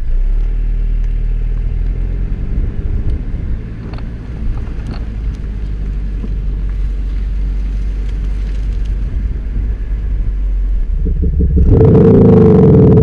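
Mercedes-Benz C-Class Cabriolet with a Maxhaust Soundbooster active-sound speaker, idling with a low, steady rumble. Near the end it revs hard and suddenly grows much louder.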